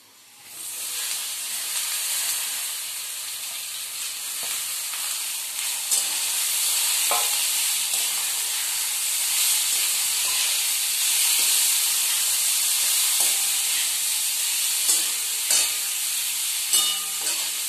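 Boiled bitter gourd slices sizzling as they fry in hot oil in a metal kadhai, the sizzle starting about half a second in as they go into the pan. A metal spatula stirring them knocks and scrapes against the pan now and then.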